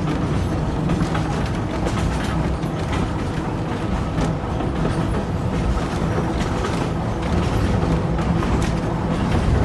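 Running noise of a moving train heard from on board: a steady rumble with a low hum.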